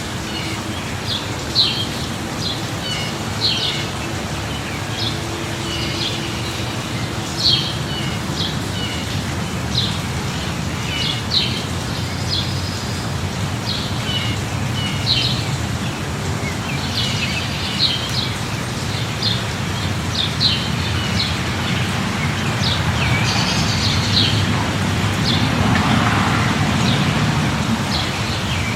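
Steady light rain hissing, with birds chirping over it many times; the rain swells a little near the end.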